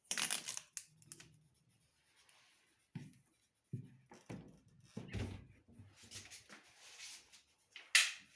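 Adhesive tape being peeled off a new refrigerator, in several short ripping bursts with a few light knocks of handling, the loudest rip near the end.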